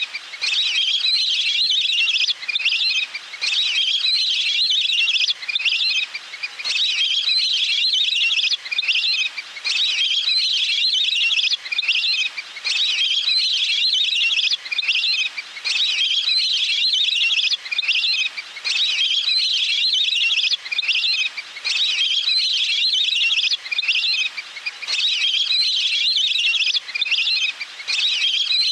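Recorded waterbird calls (Thai 'nok pet nam', a wild duck) played on a loop as a trapping lure: high chattering calls in even phrases that repeat about every three seconds, each followed by a brief gap.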